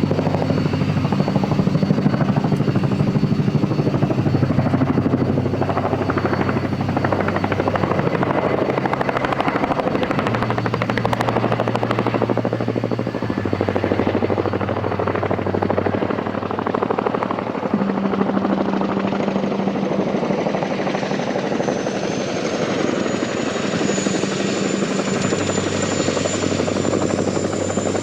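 RAF CH-47 Chinook's tandem rotors and twin turboshaft engines running loudly and steadily, the low rotor tones shifting in pitch every few seconds. A thin high turbine whine rises slightly in the second half.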